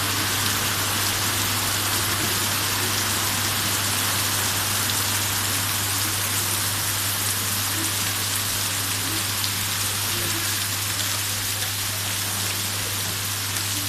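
Steady rain falling, an even hiss of drops on surfaces with no change in intensity. A steady low hum runs underneath.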